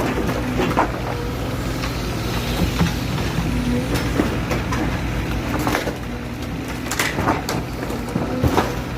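Heavy machinery's diesel engine running steadily, with scattered cracks and knocks of material breaking, as in a building being demolished.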